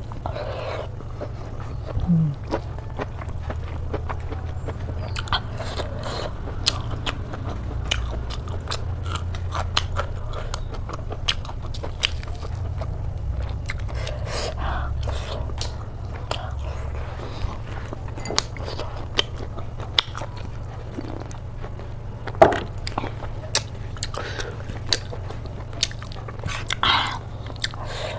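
A person chewing pork belly close to the microphone, with many small, sharp mouth clicks and bites throughout, over a steady low hum.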